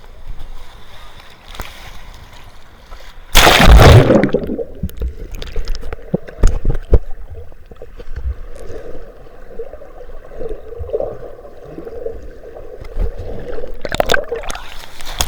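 Sea water splashing loudly about three seconds in, then a long stretch of muffled gurgling and sloshing, until open splashing sound returns near the end.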